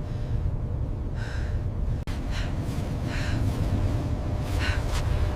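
A person breathing hard in repeated gasping breaths, about one a second, over a steady low rumble.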